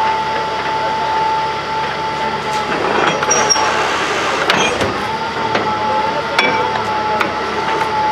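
Borewell drilling machine running: a steady high whine over a noisy mechanical din, with a few sharp knocks about three, four and a half and six seconds in.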